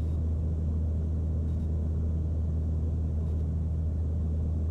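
Steady low drone of a Mooney M20C's engine and propeller in flight, heard inside the cabin.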